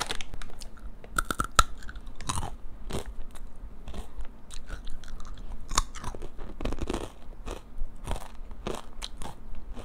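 Close-up crunching and chewing of spicy flour-coated peanuts (kacang atom): irregular crisp crunches as the hard coating breaks between the teeth.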